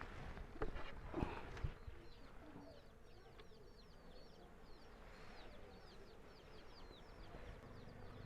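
A small bird chirping over and over in quick short falling notes, with a few sharp knocks about a second in.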